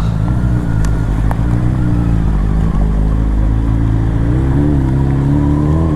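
BMW S1000RR's inline-four engine through an Akrapovic Evolution exhaust, running steadily while riding; its pitch rises and falls a little.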